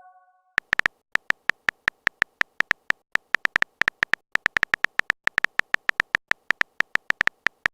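Phone keyboard typing sound effect: a long run of short, sharp clicks at an uneven pace, several a second, as a message is typed out.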